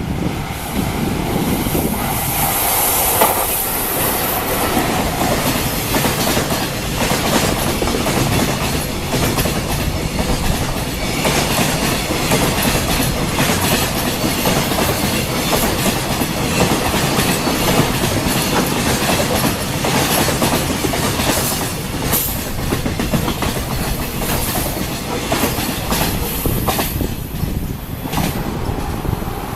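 A JR Freight EF66 electric locomotive hauling a container freight train past at speed, its wagon wheels clacking over the rail joints in a steady stream. Loudest in the first few seconds.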